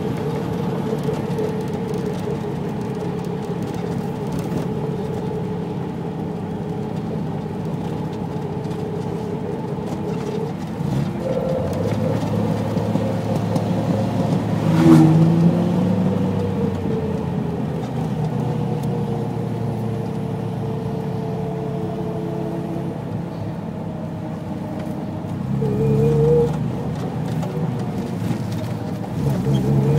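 Triumph GT6's straight-six engine heard from inside the car while driving. It rises in pitch about a third of the way in with a short louder rev around the middle, then slowly falls away. It revs briefly again near the end and climbs once more at the very end.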